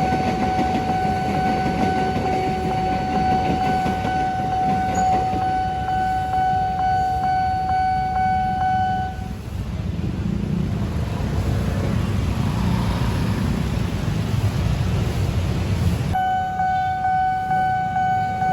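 Train running through a level crossing with a steady rumble, over a long, unwavering single-pitched warning tone. The tone stops about nine seconds in and starts again near the end.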